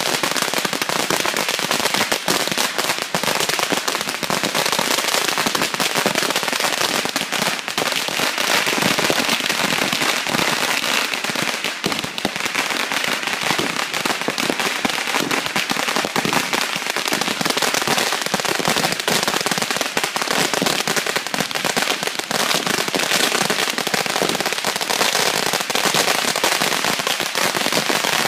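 Firecrackers going off nonstop: a dense, unbroken rattle of rapid, overlapping sharp pops with no pause.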